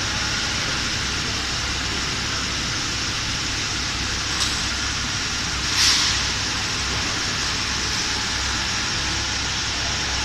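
High-frequency PVC tarpaulin welding machine running with a steady hum and hiss, broken by a short hiss about four and a half seconds in and a louder, longer hiss about six seconds in.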